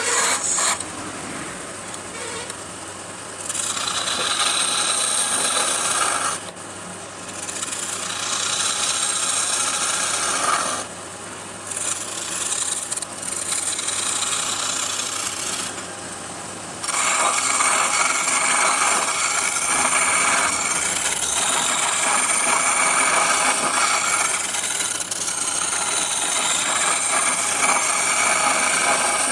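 A turning tool held against wood spinning on a wood lathe, giving a scraping hiss. It eases off briefly several times in the first half, then runs loud and steady from about halfway.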